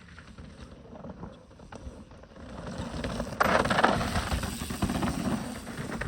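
Specialized Turbo Levo electric mountain bike being ridden over a loose dirt trail: rolling tyre noise with many small clicks and rattles. It gets louder, stepping up sharply a little past halfway.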